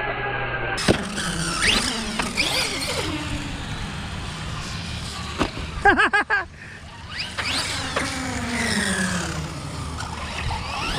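Electric RC trucks' motors whining, their pitch rising and falling again and again as the trucks accelerate and slow, with more than one truck running at once. About six seconds in, a short wavering, warbling sound is the loudest thing for about a second.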